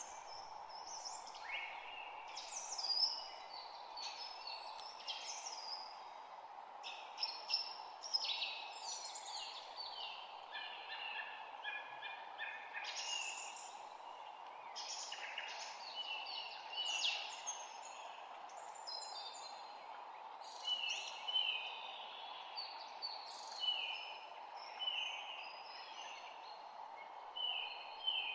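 Several songbirds calling and singing over one another in quick, overlapping chirps and short trills, over a steady background hiss.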